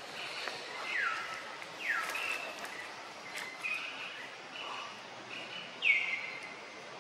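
Wild birds calling in the forest: three whistled calls that slide downward in pitch, about one and two seconds in and the loudest near the end, with short level notes in between, over a steady outdoor background hiss.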